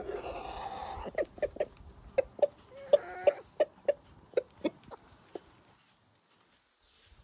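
Chickens clucking: a longer call in the first second, then a run of about a dozen short clucks, about three a second, with a brief drawn-out call near the three-second mark, stopping about five seconds in.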